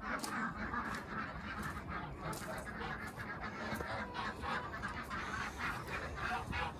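A flock of ducks and geese calling in a steady chatter of many short, overlapping calls.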